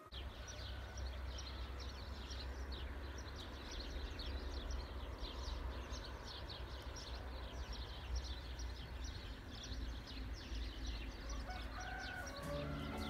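Birds chirping in many quick, short, falling calls over a steady low rumble.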